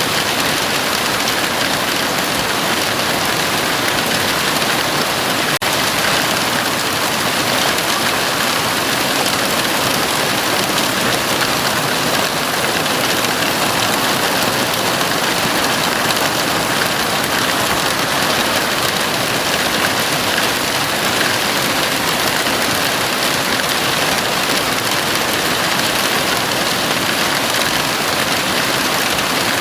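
Heavy rain drumming on a house roof, a dense, steady hiss with one momentary dip about five and a half seconds in.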